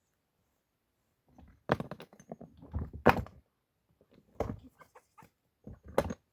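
A run of irregular thumps and knocks starting about a second in, with four louder ones about a second or more apart.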